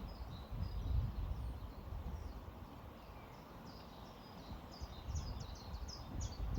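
Small songbirds chirping in short, high notes, in quick runs near the start and again near the end. Underneath is a low, uneven rumble.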